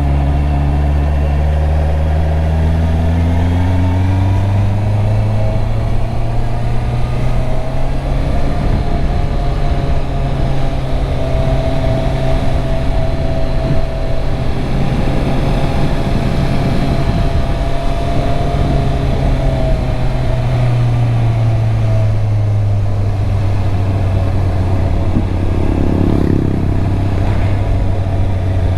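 Stock 2021 Honda CB650R's inline-four engine on the move, pitch rising as it pulls up through the revs in the first few seconds, then running fairly steady, with wind noise over the microphone and another rise a little past two-thirds of the way through.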